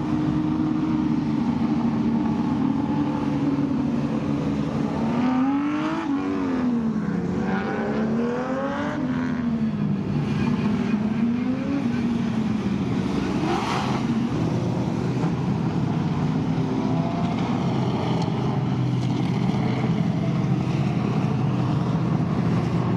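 Historic Group N muscle car racing engines running together with a steady drone. From about five to twelve seconds in, engines are revved repeatedly, the pitch rising and falling several times, with another rev near fourteen seconds.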